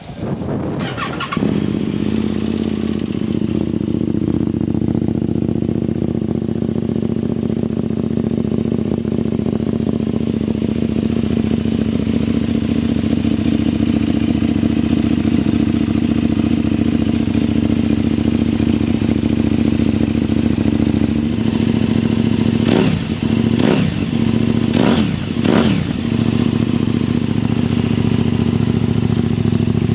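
KTM 990 Super Duke's V-twin with a Yoshimura exhaust starting up and settling into a steady idle. A little over twenty seconds in it gets about four quick throttle blips, rising and falling.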